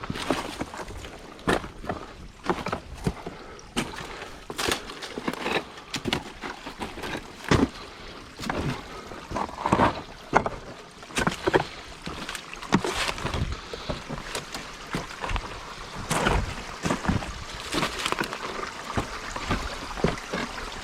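Footsteps scrambling up a rocky slope: irregular crunches, knocks and scrapes of boots on loose stones.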